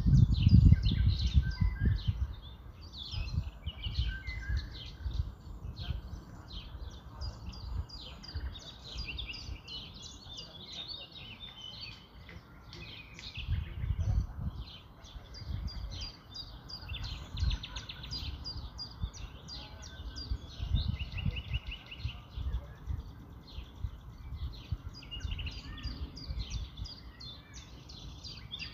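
Many small birds chirping and twittering without a break, over low rumbling thuds that are loudest in the first couple of seconds.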